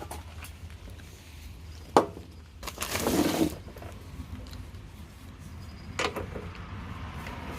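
Workshop handling sounds of a push-mower wheel being refitted with a flanged lock nut: a sharp metallic click about two seconds in, a short scraping rattle a second later, and another click near six seconds, over a steady low hum.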